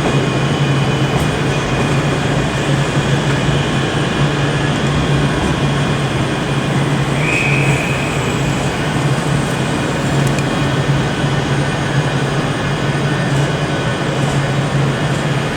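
Class 385 electric multiple unit train running in the station with a steady low hum, and a brief high squeal about seven seconds in.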